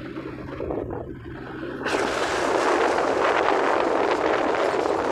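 Tractor engine running with a steady low hum; about two seconds in, a loud rushing noise sets in abruptly and continues.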